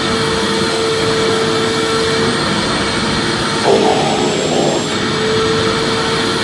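Vacuum cleaner running steadily as continuous white noise: an even rushing sound with a motor hum that fades out just after two seconds and comes back about five seconds in.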